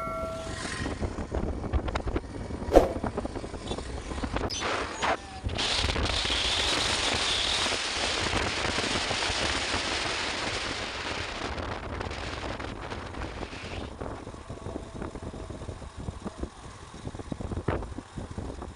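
Motorcycle on the move: steady low engine and road rumble. A few sharp clicks come in the first five seconds, then a loud rushing hiss swells for about eight seconds and dies away.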